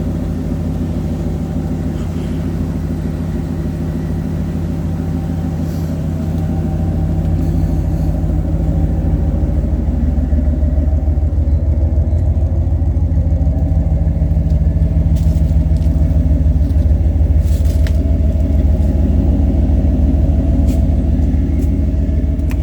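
1997 Ford F-350's 460 big-block V8 running steadily through 3-inch dual exhaust with an X-pipe, stacks and Jones Full Boar mufflers, a deep rumble that gets somewhat louder about six seconds in and then holds.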